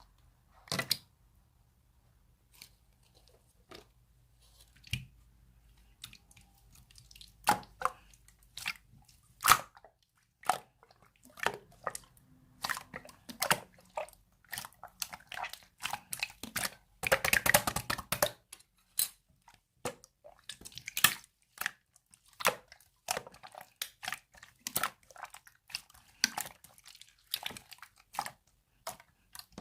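Two-layer slime being pressed, poked and stretched by hand, giving wet clicks and pops, sparse at first, then coming often, with a dense run of crackling a little past the middle.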